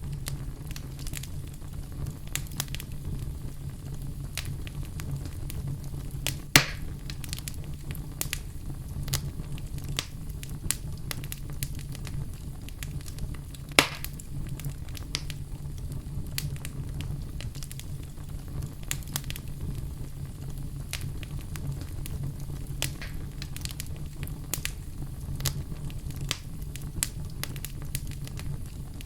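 Wood fire burning in a fireplace: a steady low rumble of flames with frequent small crackles and two louder pops, about six and fourteen seconds in.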